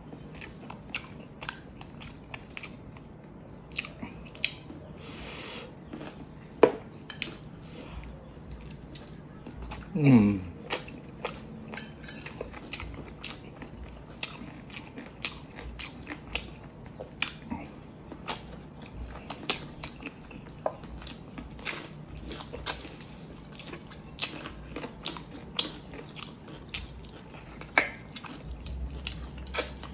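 Close-miked mukbang eating of chicken adobo drumsticks by hand: wet chewing, lip smacks and finger-sucking, with many sharp mouth clicks. About ten seconds in, a short falling 'mm' from the eater's voice.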